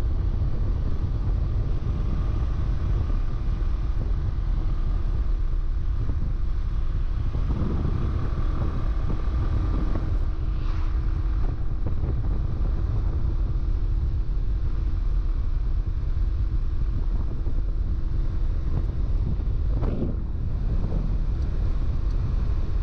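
Yamaha Vino 125 scooter's single-cylinder four-stroke engine running at a steady cruising speed with a faint even hum, under heavy wind buffeting on the microphone.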